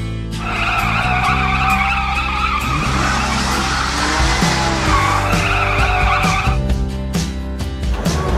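Cartoon tyre-squeal sound effect of a van's wheels spinning on asphalt as it strains to tow a stuck dump truck, over background music. The wavering screech starts about half a second in and stops near the end.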